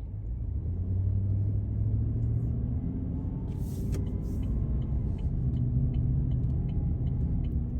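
Vehicle driving at low speed, with a steady engine and road rumble heard from inside the cab and the engine note drifting slowly up and down. A short hiss comes a little after halfway through.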